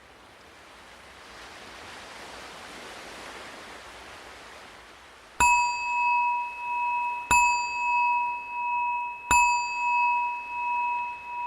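Ocean waves wash in the background, then a meditation bell is struck three times, about two seconds apart. Each strike rings on with a wavering, pulsing tone. The bell marks the end of the silent breathing practice.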